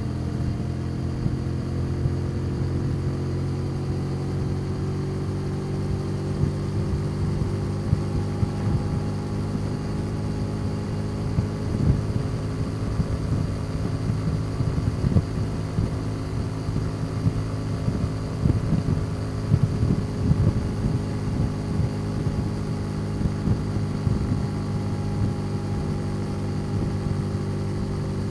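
Custom motorcycle engine running at a steady cruise, its pitch slowly easing up and down. Bursts of low rumbling noise come and go through the middle stretch.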